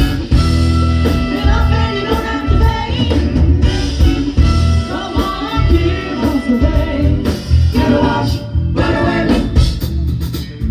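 Live soul band playing an upbeat song, with singing over a heavy bass line and a steady beat.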